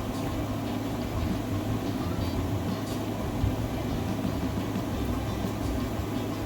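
A steady low mechanical hum, with a few faint small ticks over it.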